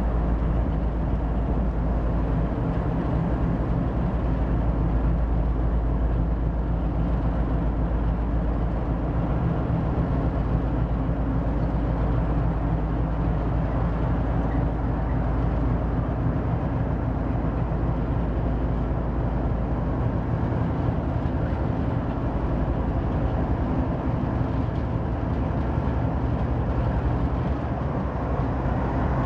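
Diesel freight locomotive engines running with a steady, deep drone. The lowest rumble eases slightly in the last third.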